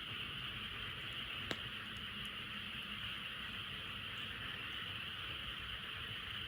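Dense, steady chorus of frogs calling, with a single sharp pop from the crackling campfire about a second and a half in.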